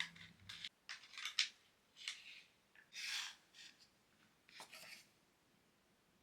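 A series of short, dry scraping and rubbing sounds, about six in the first five seconds, then quiet.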